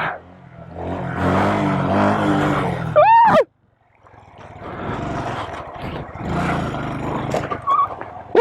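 Mini bike's small engine running under the rider, with a quick rise and fall in pitch about three seconds in. The sound cuts out abruptly for about half a second, then the engine runs on steadily.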